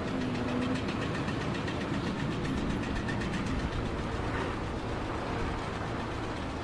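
An engine running steadily, with an even, unchanging level.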